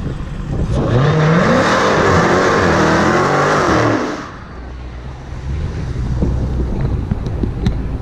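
A car engine revving hard for about three seconds, its pitch rising and falling, then dropping back to a low rumble.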